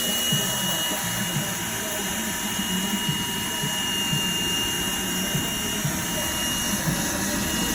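A machine running steadily: a rough low drone and hiss with a thin, constant high whine over it.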